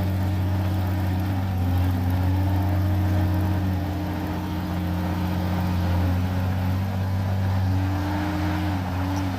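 Heavy diesel engine of a bulldozer running under load, a steady low drone whose pitch dips and comes back up a few times as engine speed changes.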